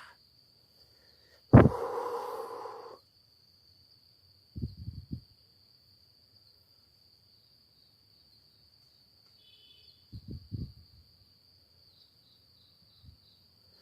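A steady high-pitched insect trill, typical of crickets, runs under the night quiet. About a second and a half in, a sudden loud sound with a held tone cuts in for about a second and a half. Soft low knocks follow twice, near five seconds and near ten seconds.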